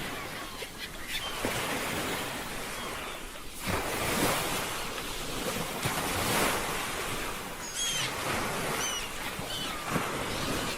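Ocean waves washing and breaking in slow surges, with wind. A few short high chirps come about eight and nine seconds in.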